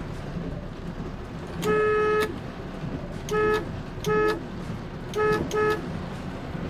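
Car horn honking five times: one longer blast, then four short toots.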